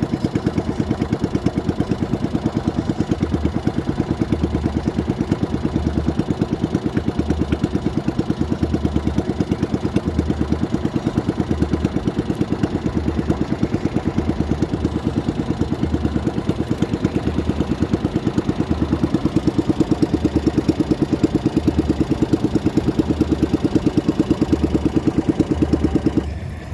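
Small boat engine running steadily at close range with a fast, even putter, then dropping away sharply near the end.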